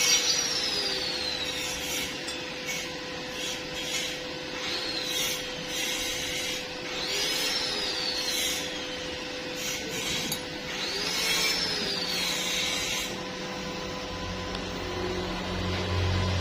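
A tool working metal: a rasping, scraping noise in repeated strokes, with a whine that rises and falls several times. It stops about thirteen seconds in, leaving a low hum that grows louder near the end.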